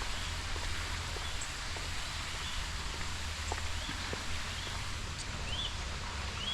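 Steady outdoor hiss over a low rumble, with scattered faint ticks and a few short bird chirps, the clearest near the end.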